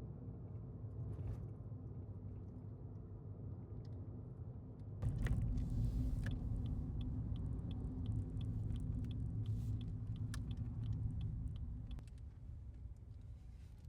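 Low running rumble of a Suzuki Hustler on the road, heard inside the cabin, growing louder about five seconds in. For several seconds in the middle a light, regular ticking comes in at about two a second.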